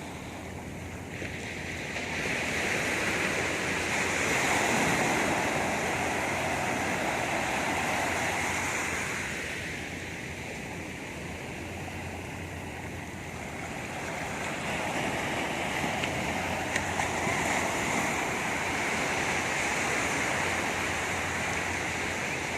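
Sea surf washing onto a beach: an even rush of water noise that swells up in two long surges and falls back between them.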